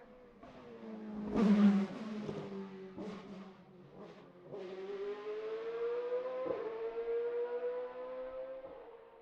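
Hill-climb race car engine at full throttle: a loud burst with sharp cracks about a second and a half in, then a steady rising engine note from about halfway with one quick break, like a gear change, fading toward the end.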